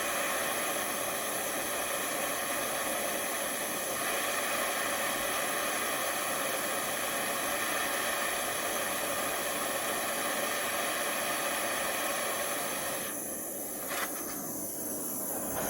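A gas flame hissing steadily while heating a steel steering rod. It dips briefly near the end, with a single click.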